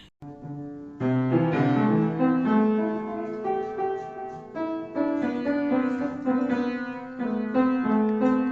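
Piano music: a keyboard melody over chords, starting about a second in after a brief silence.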